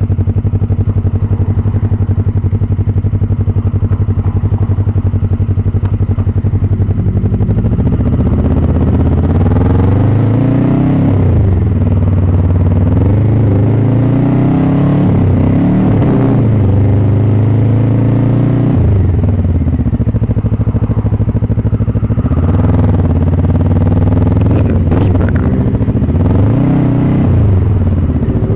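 Motorcycle engine running at a steady speed, then from about seven seconds in rising and falling in pitch again and again as it is throttled up and eased off through the gears.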